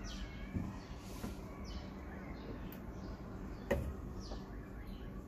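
Birds chirping outdoors, short calls that fall in pitch, repeating over a low steady hum. A single sharp knock comes about three and a half seconds in.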